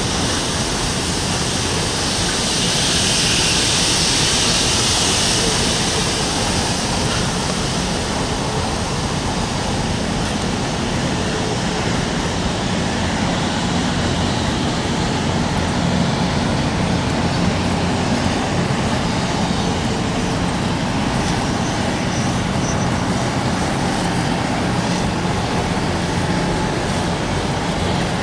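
Passenger train running past, a steady rumble of wheels and cars. A diesel locomotive's engine hum comes in near the end.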